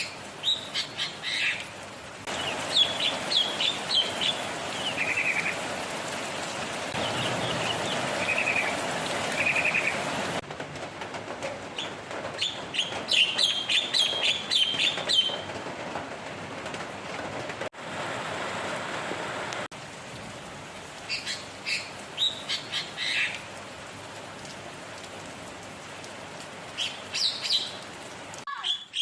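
Songbird singing in short bursts of sharp chirps and rapid trills over a steady hiss. The background noise changes abruptly several times, as between spliced recordings.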